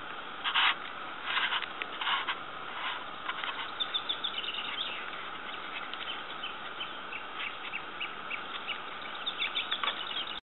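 Small birds chirping repeatedly over a steady hiss, with a few brief louder bursts of noise in the first few seconds.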